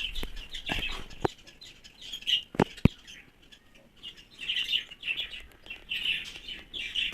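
Small birds chirping in short, repeated high calls, with a few sharp clicks in the first three seconds.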